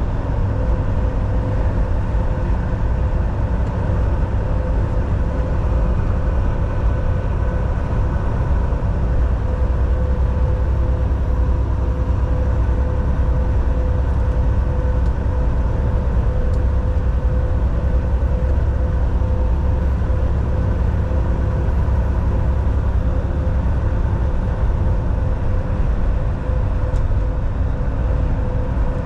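Volvo VNL 760 semi truck cruising on the highway, heard inside the cab: a steady low rumble of engine and road noise with a faint steady hum, unchanging throughout.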